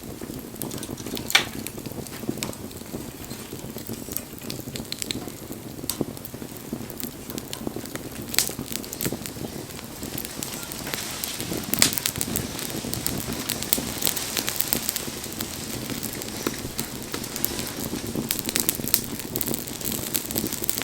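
Wood bonfire burning and crackling, with a steady low rush under scattered sharp pops; the crackling grows denser about halfway through.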